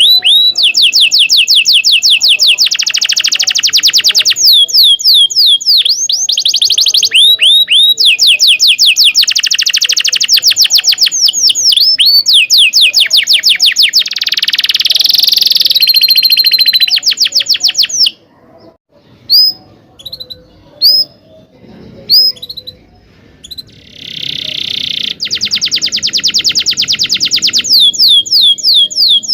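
Domestic canary singing long rolling trills of very rapid repeated high notes, linked by short hooked chirps. Past the middle the song thins to a few separate chirps for several seconds, then the trilling resumes.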